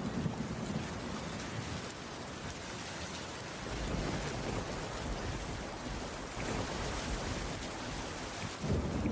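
Steady rainfall with a low rumble of distant thunder underneath, the rumble swelling about four seconds in.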